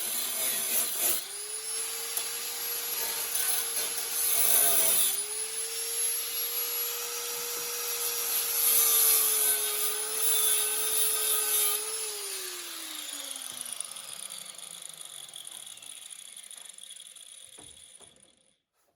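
A handheld rotary power tool, such as a cut-off wheel, cutting into sheet-metal bodywork. Its motor runs at a steady pitch with a scraping, cutting noise and dips briefly under load. It is switched off at about two-thirds of the way through and whines down to a stop.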